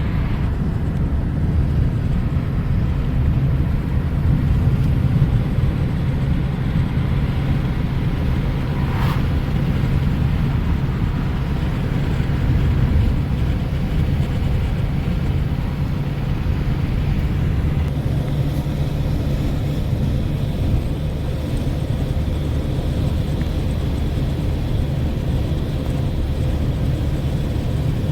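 Steady hum and rumble of a car driving along a road, engine and road noise, with one short click about nine seconds in.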